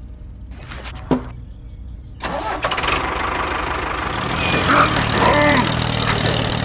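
An engine starting up, with a couple of clicks first, then running loudly from about two seconds in.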